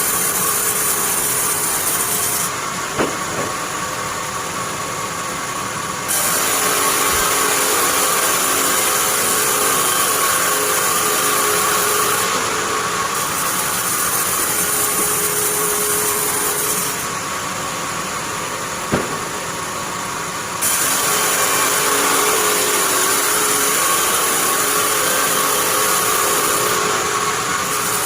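Sawmill bandsaw running steadily while processing pine into planks. Its noise turns duller twice and grows full again about 6 and 21 seconds in, with a sharp knock shortly after each dull stretch begins.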